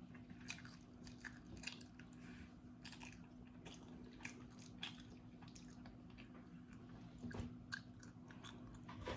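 Faint chewing and biting while eating instant noodles: irregular small clicks and smacks of the mouth over a low steady hum.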